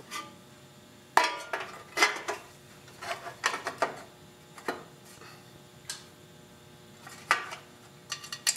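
Metal engine shroud being fitted onto a Tecumseh lawn mower engine by hand, clanking and knocking against the engine in a string of irregular sharp metallic knocks, the loudest two about a second and two seconds in.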